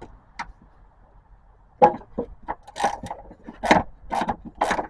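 Hand ratchet clicking in short rasps, about two strokes a second, starting a couple of seconds in, as bolts are loosened.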